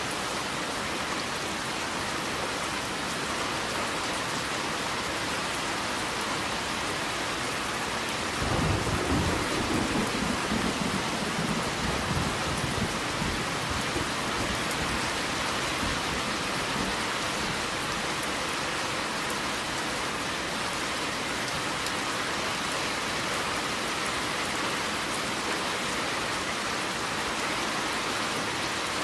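Steady rain falling, with a roll of thunder that breaks in about a third of the way through and rumbles away over several seconds.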